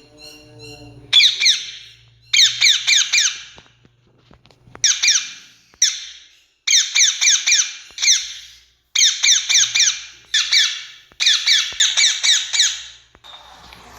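Rose-ringed (Indian ringneck) parakeet giving harsh, screeching calls in quick runs of three to five notes, a new run about every second.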